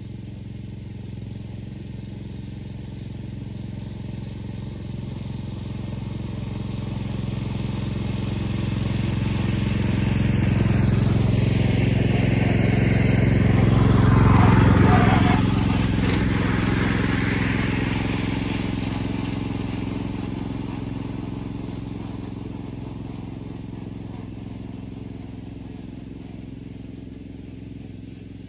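A 1970 Sears 10XL garden tractor's engine running steadily as it drives past, growing louder to a peak about halfway through, dropping in pitch as it goes by, then fading away.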